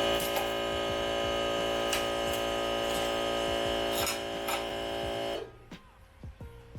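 Plasma cutter arc cutting steel flanges: a steady, even buzzing tone that stops abruptly a little past five seconds in.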